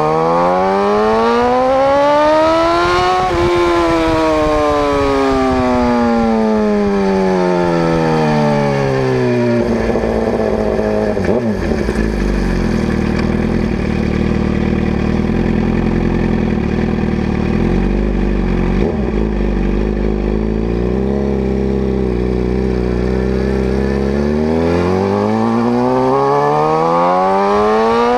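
2011 Suzuki GSX-R750's inline-four running through an unbaffled M4 GP slip-on exhaust with a cat-delete mid pipe. It revs up for about three seconds, then falls away over several seconds, runs low and steady for a long stretch, and climbs in revs again near the end.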